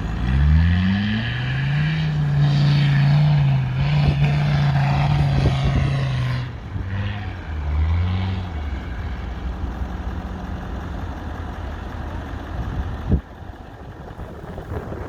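A 4x4 off-roader's engine revs up sharply and holds high revs under load for about six seconds, then drops back, revs briefly once more and settles to a lower, steady run. A single sharp knock comes near the end.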